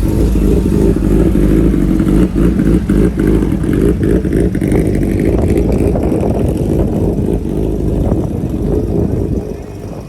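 A loud vehicle engine rumbles close by, with a rising tone in the middle, then fades near the end.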